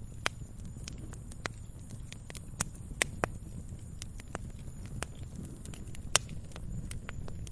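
Wood campfire crackling: irregular sharp pops and snaps, a few much louder than the rest, over a low steady rumble.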